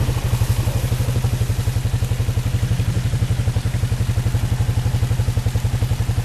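Engine of a small off-road farm vehicle running at a low, steady speed, with a rapid even pulse of about ten beats a second.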